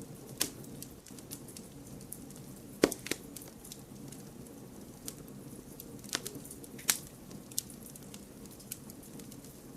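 Wood campfire burning with a steady low hiss and scattered crackles, with a few sharper pops about three seconds in and again around six and seven seconds.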